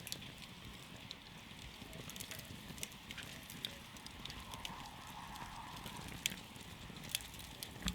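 Wood campfire crackling, with irregular sharp pops and snaps over a steady low rustle of burning, and a faint hiss about halfway through.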